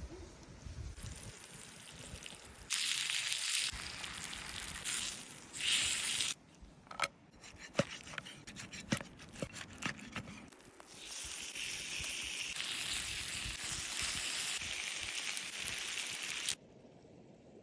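Water running and trickling in short edited stretches, broken by a run of sharp knocks and brief clinks in the middle.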